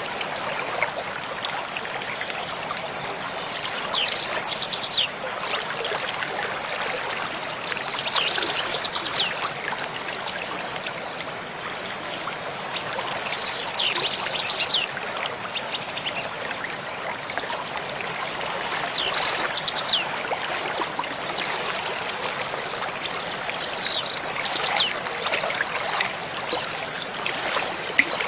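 Mountain stream flowing steadily over rocks, with a songbird repeating a short, high song of quick notes that falls in pitch about every five seconds, five times in all.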